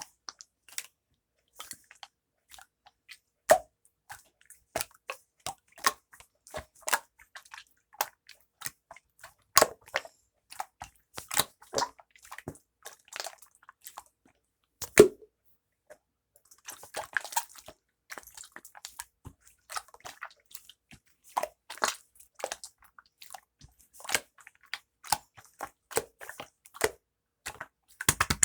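Irregular small wet clicks and squishes, with a denser run of crackling a little past the middle.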